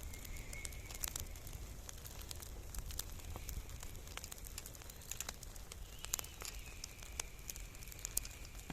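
Bonfire of dried potato and tomato haulm burning with many irregular crackles and pops over a low rumble.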